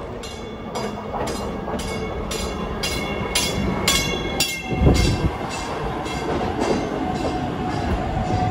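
Chicago South Shore Line electric commuter train pulling into the station and passing close by, its wheels and motors rumbling. A bell strikes about twice a second and fades out about five seconds in, just as a loud low buffet of air comes while the cab goes past.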